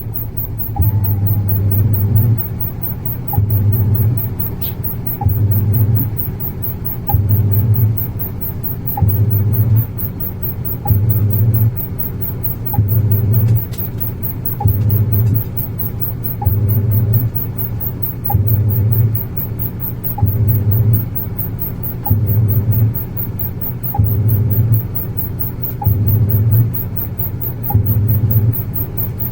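Iris Ohyama IAW-T606-B top-loading washing machine in its wash cycle: the pulsator motor hums for about a second, stops and starts again with a click, in a steady rhythm about every two seconds.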